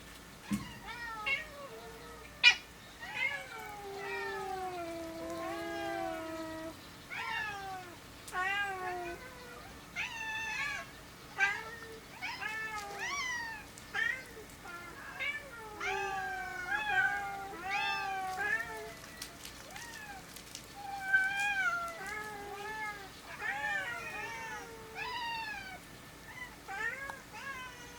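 Domestic cats meowing again and again, many short meows of varying pitch with one longer drawn-out meow about four seconds in. A single sharp click about two and a half seconds in.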